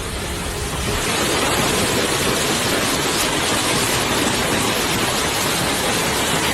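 Steady, loud rushing noise that sets in abruptly and holds level, with no pitch or beat in it.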